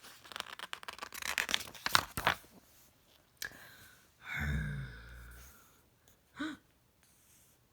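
Paper rustling and crackling as the pages of a book are handled and turned, followed about four seconds in by a low thump.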